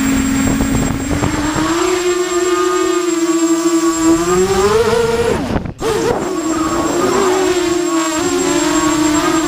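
QAV250 race quadcopter's brushless motors and propellers spinning with a steady buzzing whine. The pitch rises about five seconds in, cuts out for an instant, then settles back to a steady whine.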